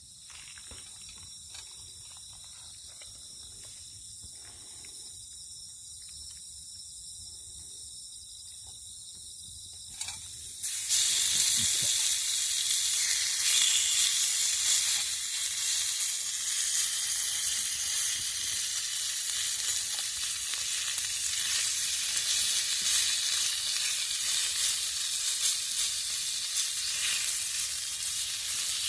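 Food sizzling loudly as it meets a hot cooking surface, the hiss starting suddenly about a third of the way in and carrying on steadily. Before it, a quieter steady high-pitched hum.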